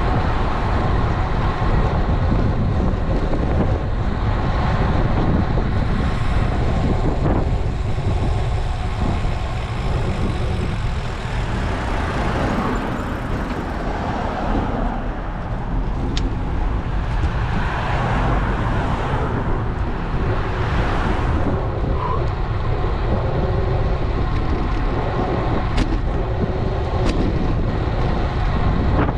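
Road traffic heard from a moving bicycle, with a steady low rumble of wind and road noise on the microphone and several vehicles swelling past.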